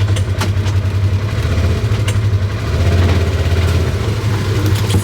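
Tractor engine running steadily at a low, even pitch, with a few sharp clicks or snaps over it.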